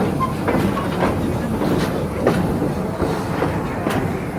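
Amusement-park train rolling along its track, heard from on board: a steady rumble, with irregular wheel clacks over the rail joints.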